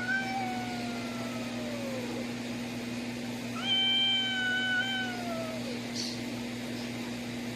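A cat meowing: two long drawn-out meows, the first sliding slowly down in pitch, the second held level and then dropping at its end. A steady low hum runs underneath.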